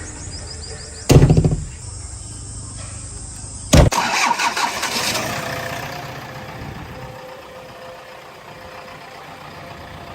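A tractor-size diesel engine being started: a loud burst about a second in, then it catches with a sharp onset near four seconds and keeps running, its sound slowly settling lower.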